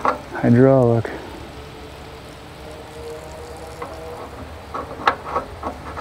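Hydraulic fluid draining out of the log splitter's opened cylinder, a steady splattering hiss as it runs onto the ground, with a few light clicks near the end.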